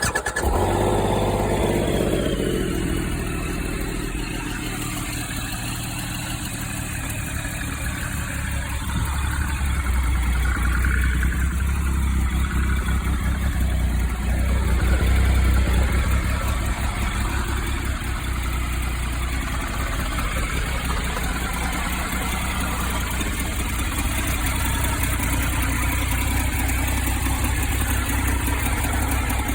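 Triumph Explorer 1200's three-cylinder engine starting, its revs falling over the first couple of seconds, then idling steadily.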